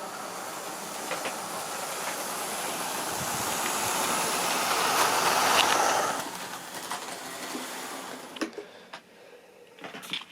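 Model train running past on the track: the rushing whir of the wheels and motor grows louder, is loudest about five to six seconds in, then drops away and fades. A few sharp clicks follow near the end.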